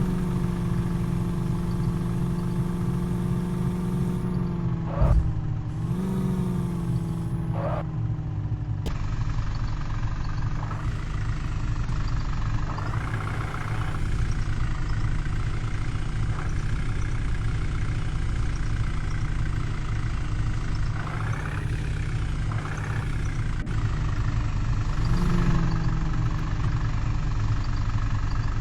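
Truck engine idling steadily, revved briefly a few times, with a sharp knock about five seconds in.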